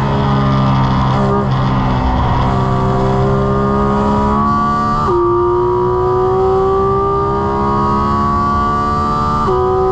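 Porsche 718 Cayman GT4 RS's naturally aspirated 4.0-litre flat-six heard from inside the cabin, accelerating hard at full throttle with its pitch climbing steadily. Two quick PDK upshifts, one about five seconds in and one near the end, each drop the pitch sharply before it climbs again.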